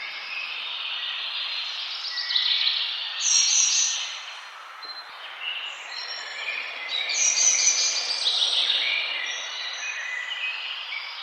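Several forest songbirds chirping and singing at once, in short high notes and trills that grow louder about three seconds in and again about seven seconds in, over a steady background hiss.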